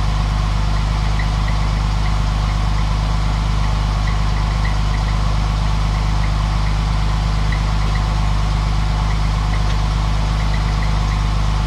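Newly installed engine in a 1950 Dodge idling steadily on its first run, a constant low running sound with no revving.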